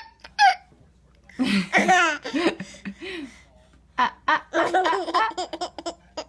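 A baby of about nine months laughing in bursts of belly laughs: a short one at the start, a longer run about a second and a half in, and another from about four seconds in.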